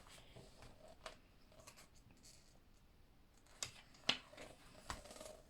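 Faint handling of a book's paper pages: a few soft taps and rustles, the clearest ones about three and a half to five seconds in, over quiet room tone.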